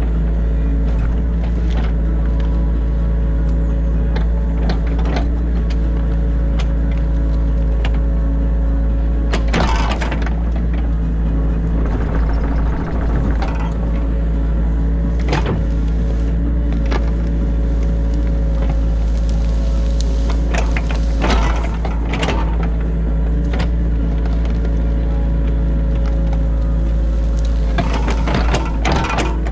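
Excavator's diesel engine running steadily under load, heard from inside the cab, with hydraulic working noise. Scattered knocks and scrapes from the bucket and arm come several times, bunching near the end.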